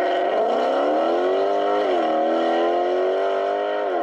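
Car engine revving hard and held at high revs, its pitch climbing slowly, dipping about two seconds in, then climbing again.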